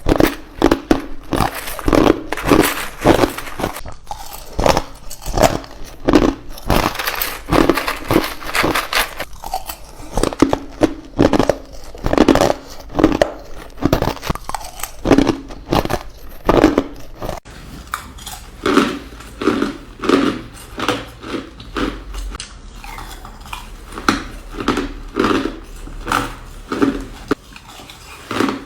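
Ice being bitten and crunched between teeth close to the microphone, a crisp crunch every second or so.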